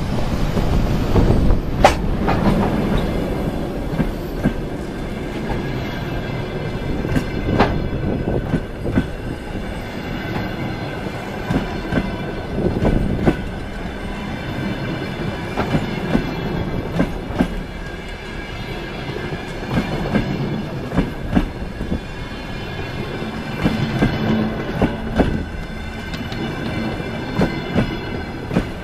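Passenger train coaches rolling past at close range: a steady rumble of wheels on rail, broken by frequent sharp clattering knocks as the wheelsets run over the rail joints.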